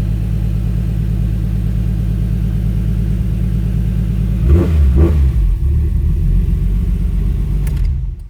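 Nissan RB26DETT straight-six, converted to a single turbo, idling steadily on a freshly installed Haltech standalone ECU. Two quick throttle blips come about halfway through, and the engine is switched off abruptly near the end.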